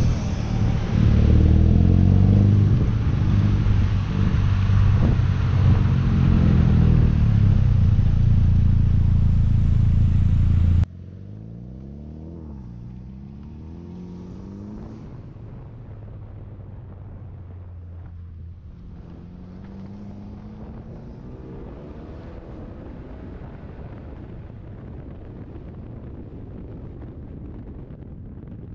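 Car engines: a loud, steady engine sound with hiss, then after a sudden cut a quieter section where engines rev and rise in pitch as cars accelerate, several times.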